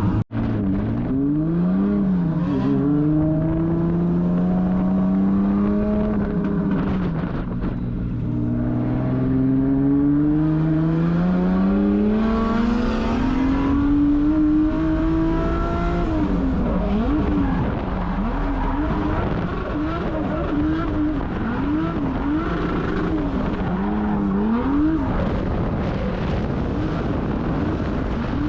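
1.5JZ inline-six drift car engine under hard throttle, its pitch climbing and falling in long sweeps through the gears. After about sixteen seconds it changes to rapid up-and-down revving as the throttle is worked through the drift.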